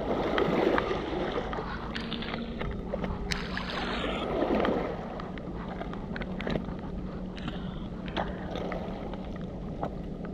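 Shingle and shards crunching and clicking while being searched through by hand and underfoot on a river foreshore, with two louder crunches about half a second and four and a half seconds in, over a steady rumble of wind on the microphone.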